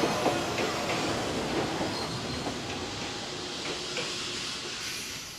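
Train pulling into a station, its running noise dying away as it slows, with faint thin squeals from the wheels or brakes.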